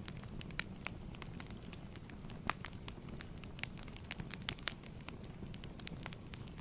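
Fireplace fire crackling: irregular sharp pops and snaps over a steady low rumble, with a couple of louder pops about two and a half and four and a half seconds in.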